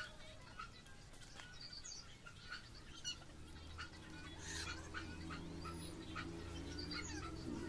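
Small birds chirping in short, repeated calls. A low steady hum comes in about halfway through.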